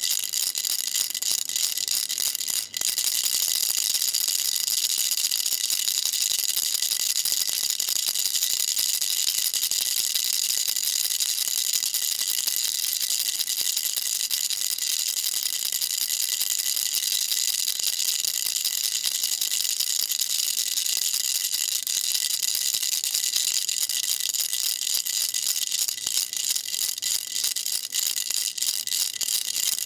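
Baby rattle shaken continuously: a dense, high-pitched rattling with a brief break about three seconds in.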